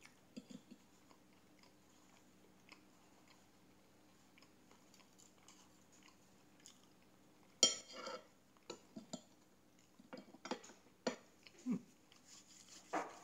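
Quiet chewing and eating sounds, with fork and knife clicking against a plate. A few louder sharp sounds come in the second half.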